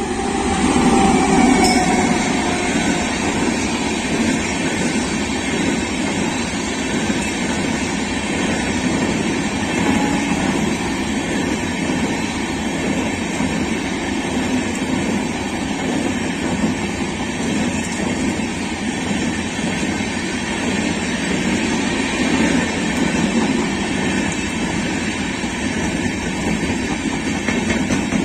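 Express train passing at speed behind a WAP-7 electric locomotive: the noise swells as the locomotive rushes past in the first second or two, then the coaches' wheels run on over the rails in a long, steady rush.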